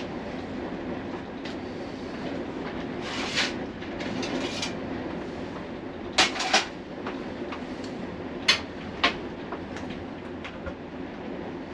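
Kitchen clatter in a caravan galley: about seven sharp clacks and knocks of utensils, crockery and cupboards being handled, two of them in quick pairs, over a steady low rumble.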